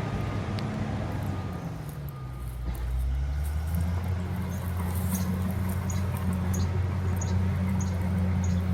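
Bulldozer's diesel engine running; its note sags about two seconds in, as if lugging under load, then picks back up and runs louder and steady. From midway, faint short high chirps repeat at an even pace, a little under twice a second.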